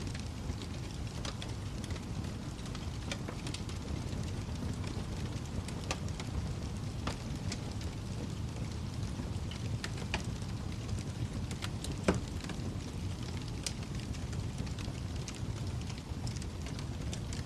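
Wood fire crackling over a steady low rumble, with scattered pops and one louder pop about twelve seconds in.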